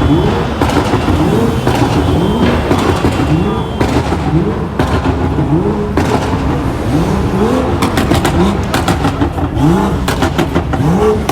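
BMW M3/M4 engine and exhaust revved in quick repeated blips, about one a second, each a rising then falling note. Near the end come a rapid run of sharp exhaust pops and crackles.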